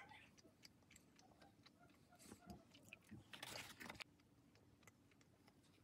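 Faint chewing of a chocolate chip cookie: soft scattered mouth clicks, with two slightly louder stretches about two and three and a half seconds in, against near silence.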